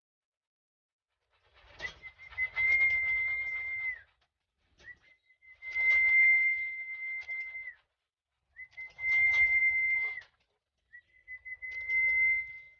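Four long, steady whistles at one high pitch, each held for two to three seconds and dropping off at its end, with a rustling noise under each.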